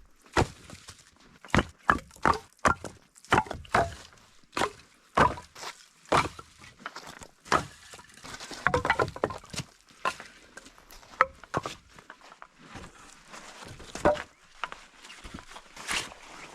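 Firewood being chopped: a run of sharp wooden knocks, roughly one every half second to a second, thinning out in the second half. A short pitched vocal sound comes just past the middle.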